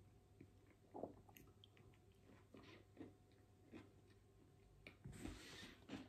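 Quiet close-miked chewing of a soft sandwich of untoasted white bread, cheese slices and cooked red peppers: small wet mouth clicks and bites scattered through. About five seconds in, a louder rustle with a soft thump.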